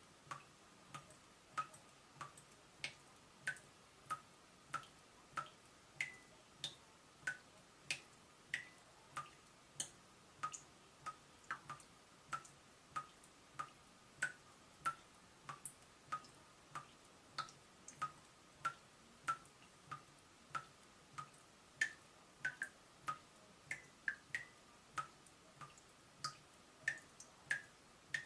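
Water dripping from a leaking tap, one drop about every two-thirds of a second at a slightly uneven pace. Each drop lands as a short, sharp plink.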